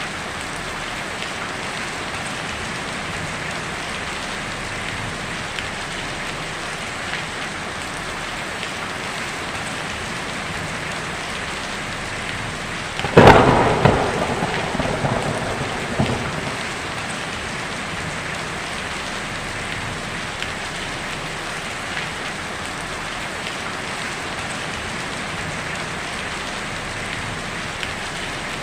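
Heavy rain drumming steadily on a tin roof. About halfway through a sharp thunderclap breaks in and rumbles away over a few seconds, with a second smaller rumble just after.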